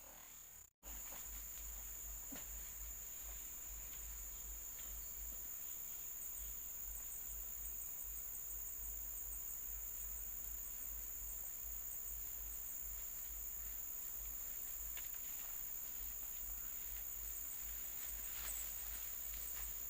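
Forest ambience dominated by a steady high-pitched drone of insects such as crickets, with faint repeating chirps in it, over a low rumble. A few faint clicks come near the end.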